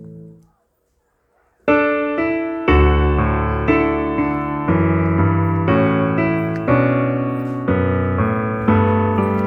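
Background piano music: after a fading note and a second of silence, a piano starts about two seconds in, playing steady notes about once a second.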